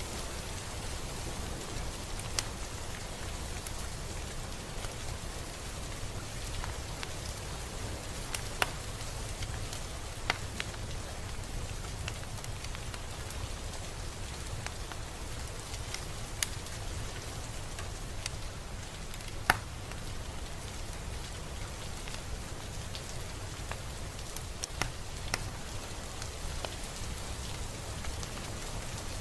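Steady rain, an even hiss with scattered sharper drip ticks, the loudest about two-thirds of the way through.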